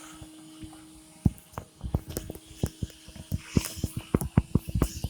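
Small handheld vacuum running with a steady hum. From about a second in, a string of irregular clicks and knocks comes several times a second.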